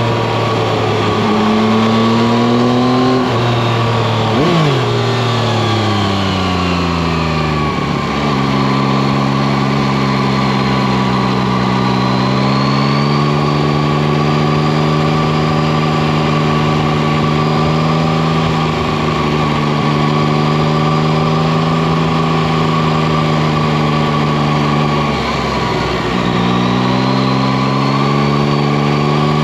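Yamaha Tracer 9 GT's three-cylinder engine running under way, picked up by a camera at the front wheel. Its pitch moves up and down over the first few seconds, slides lower until about eight seconds in, holds steady for a long stretch, dips briefly about twenty-five seconds in, then climbs again.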